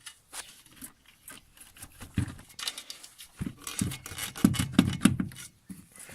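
Irregular knocks, clunks and scraping from a top-mount intercooler and its fittings being worked free by hand in the engine bay, with a flurry of heavier thumps about three and a half seconds in.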